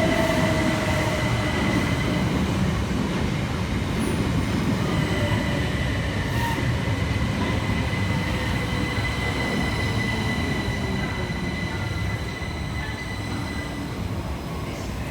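Southern Class 377 Electrostar electric multiple unit running into the station and slowing, its motor whine gliding slowly down in pitch over a steady rumble of wheels on rail, with a steady high squeal throughout. The sound fades gradually as the train draws to a stop.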